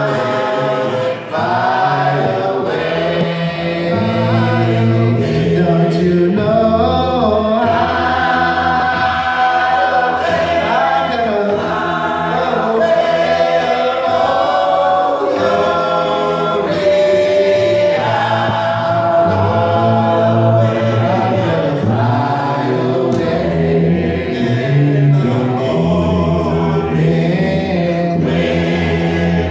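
Church congregation singing a hymn together in parts, unaccompanied, with a strong bass line under the melody.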